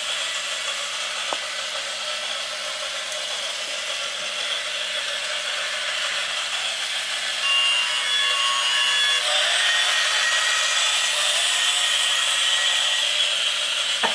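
Small electric toy train running along its track, a steady mechanical running and rubbing noise that gets louder about seven and a half seconds in.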